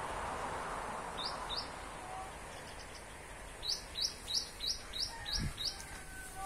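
A bird giving short, sharp rising chirps: two about a second in, then a quick run of seven at about three a second. A haze of road traffic noise fades early, and there is one low thump near the end.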